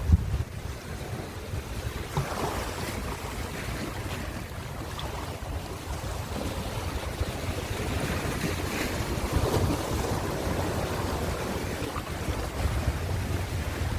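Ocean surf washing in continuously, with a swell of breaking waves about two seconds in and again around nine to ten seconds in. Wind buffets the microphone with a low rumble.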